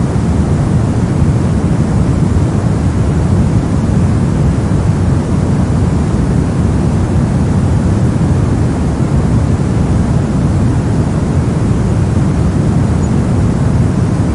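Brown noise: a steady, even hiss that is deepest and heaviest in the low end and fades toward the highs, unchanging throughout.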